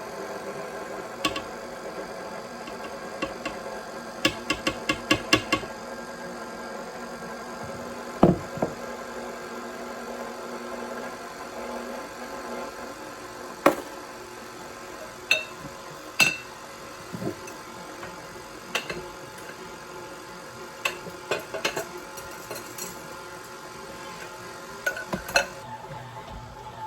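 Older KitchenAid stand mixer running as it mixes and kneads stiff bagel dough: a steady motor hum with scattered clicks and knocks, a quick run of clicks about four to five seconds in and a heavier thump about eight seconds in.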